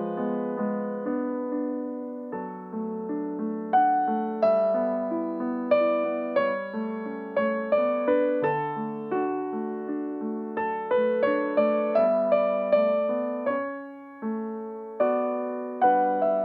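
Solo piano playing the closing postlude: chords and melody notes struck and left to fade, with a brief pause about fourteen seconds in.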